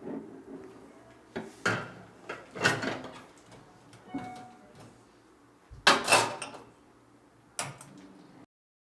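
Metal clunks and knocks of espresso preparation: a portafilter being handled, tamped and locked into the machine. There are about five separate knocks, the loudest about six seconds in.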